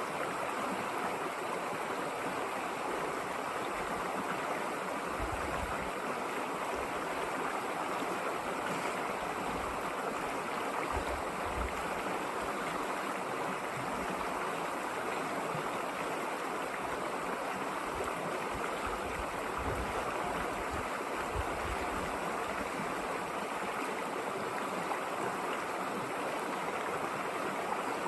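River water flowing and rushing over stones in a steady, even stream, with a few brief low rumbles.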